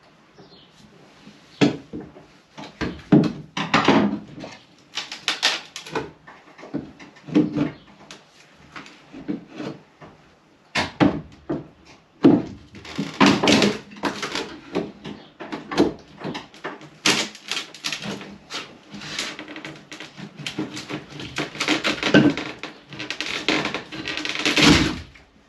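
Irregular knocking, clattering and scraping of hands and tools at work in a small enclosed space, in uneven bursts with short pauses.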